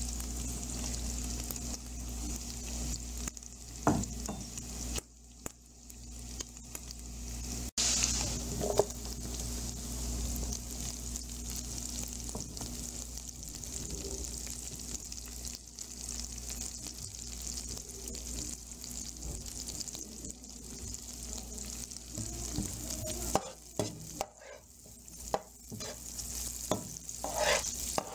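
Sliced garlic, ginger and green onions sizzling in hot oil in a frying pan while being stirred, with a steady hiss and a few sharp knocks of the stirring utensil against the pan.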